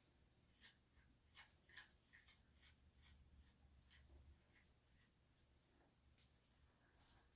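Faint, irregular snips of thinning shears cutting through a Shih-Tzu's matted tail hair, many short crisp clicks at a time.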